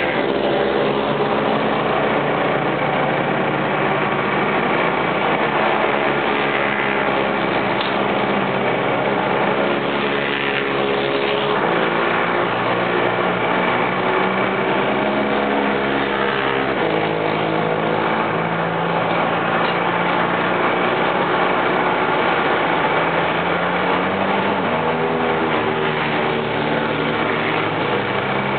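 Racing motorcycle engines running steadily and loudly, their pitch shifting in steps every few seconds.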